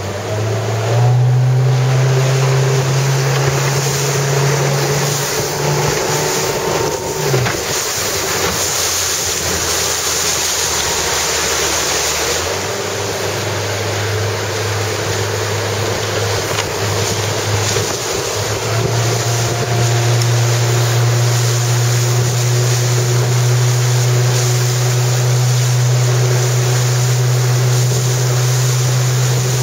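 Motorboat engine running at a steady pitch that steps up or down a few times, over loud wind and water rush.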